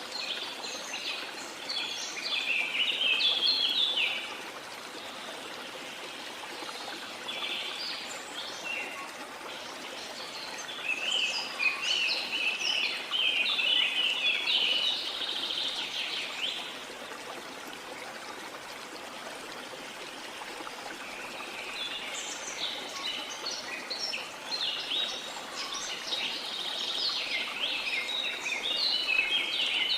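Steady rush of running water with three bouts of birdsong: quick chirping phrases at the start, again in the middle, and over the last several seconds.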